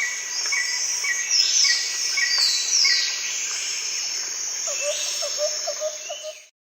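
Birds and insects in a dense chorus: many quick chirps and falling whistles over a steady high insect hiss, with a warbling lower call late on. It cuts off suddenly near the end.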